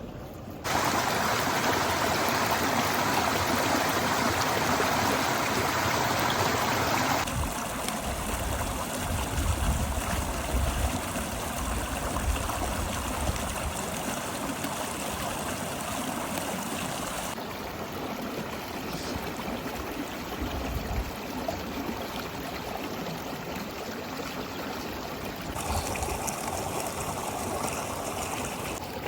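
Flowing river water, a steady rushing and trickling. Its tone and loudness change abruptly a few times, first about a second in and again around seven seconds, with a low rumble for a while after that.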